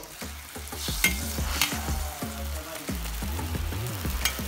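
Food frying in a wok while a metal ladle stirs it, with a few sharp scrapes of the ladle against the pan.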